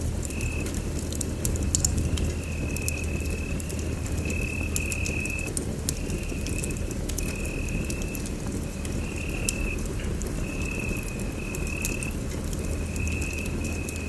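Wood fire in a fireplace crackling, with scattered sharp pops over a low steady rumble. A high, even-pitched trill repeats in stretches of about a second throughout.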